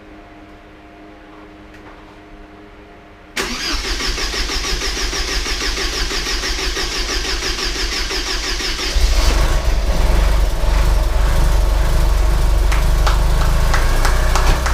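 Rebuilt 1986 Porsche 944's naturally aspirated four-cylinder engine starting for the first time. A few seconds in, the starter cranks it with a fast rhythmic pulsing. After about five and a half seconds of cranking it catches and runs on, louder and deeper.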